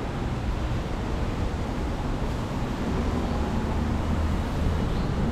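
Steady low rumble of city street traffic, with a vehicle engine's hum coming in about halfway through.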